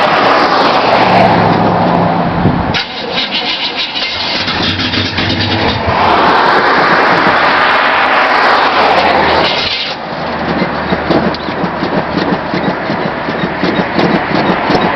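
1977 Chevy C10's 305 small-block V8, cold-started in 8 °F weather, running rough and uneven. It surges loudly and then sags twice as it struggles to keep running.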